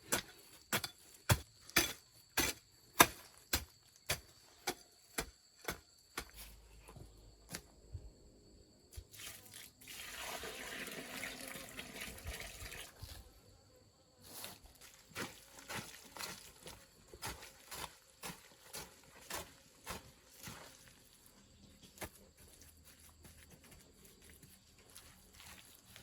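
Sharp knocks or blows repeated about twice a second, the loudest in the first few seconds. About ten seconds in, a few seconds of steady rushing noise like something being poured, then slower, fainter knocks.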